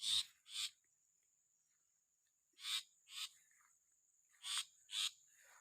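Long-tailed shrike giving harsh, rasping scolding calls in pairs, three pairs about two seconds apart, the alarm of a parent bird near its nest.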